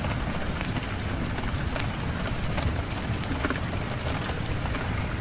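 Fireplace fire crackling: many small, sharp, irregular pops over a steady low rumble of wind.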